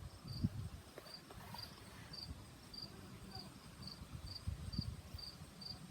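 A cricket chirping faintly, a short high chirp repeated evenly about twice a second, over low rumbling noise.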